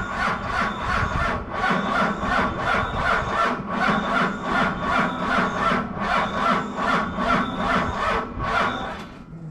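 Starter cranking a Dodge Cummins inline-six diesel in an even, slow rhythm of about four compression strokes a second without it catching, then stopping shortly before the end. It is a cold start at 15 degrees with no grid heater, and the weak batteries are not turning it fast enough to fire.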